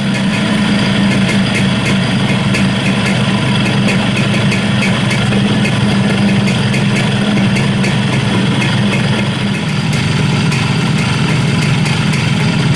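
Single-cylinder two-stroke 125cc engine of a 1961 Montesa Brío 110 S 'Monotubo' motorcycle, running through its single exhaust at a steady idle, with a slight dip and change in its note about ten seconds in.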